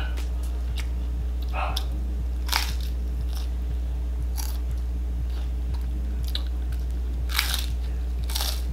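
Crunching and chewing of crispy deep-fried battered chicken skin: irregular crisp bites, the loudest about two and a half seconds in and near the end, over a steady low hum.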